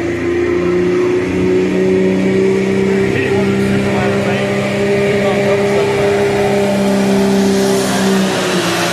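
Diesel pro stock pickup truck engine held at high revs under load during a pull, a steady loud note that drops away near the end as the run finishes.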